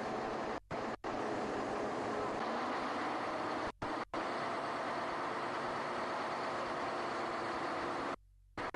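A steady noisy drone, broken by brief cuts to near silence, twice in quick succession early on, twice again about four seconds in, and once more near the end.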